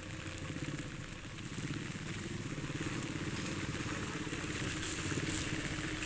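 A small engine running steadily, with an even low pulsing, slightly louder toward the end, and a light hiss above it.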